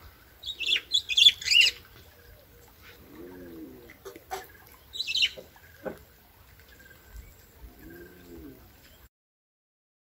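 Wild birds calling: two bursts of bright, high chirps, one near the start and one about five seconds in, and two lower, rounded calls, one about three seconds in and one about eight seconds in.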